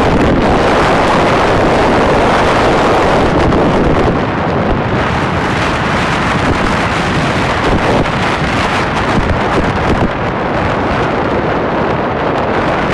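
Steady, loud rush of wind buffeting the microphone aboard a boat at sea, somewhat stronger in the first few seconds and then easing.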